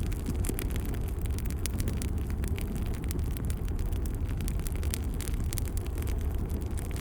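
Log fire burning in a fireplace: a steady low rumble of the flames with frequent sharp crackles and pops of the burning wood.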